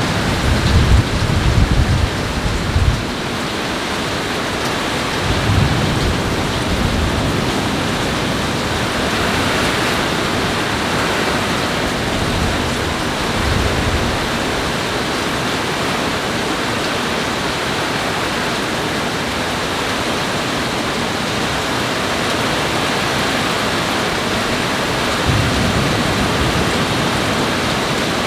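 Heavy rain falling steadily in a thunderstorm, with a few brief low rumbles near the start, around five and thirteen seconds in, and again near the end.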